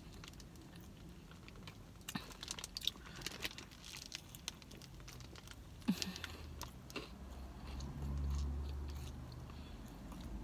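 Close chewing and biting of a burrito coated in crushed Flamin' Hot Cheetos: crunching and wet mouth clicks scattered through, the sharpest about two and six seconds in. A low rumble swells and fades around eight seconds in.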